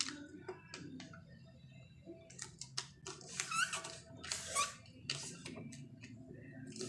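Sheet of paper being folded and creased by hand: short rustles, crinkles and clicks, with squeaky scrapes as a finger presses along the fold, busiest in the middle of the stretch.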